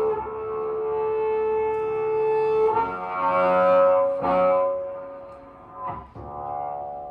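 Free improvisation for double bass and bass clarinet: long held notes, moving to a new, louder note about three seconds in, with sharp attacks near four and six seconds before the playing fades down.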